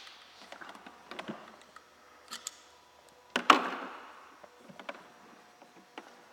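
Small clicks and handling noises of tools being worked on an engine, with one sharp knock about three and a half seconds in that rings briefly.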